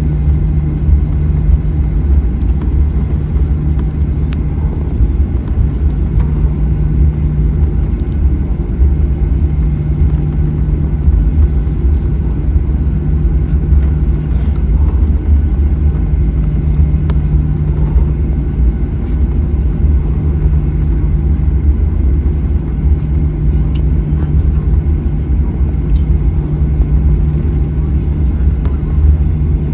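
Steady low rumble of cabin noise inside a Boeing 737-900ER from its jet engines, with a low hum that comes and goes every few seconds.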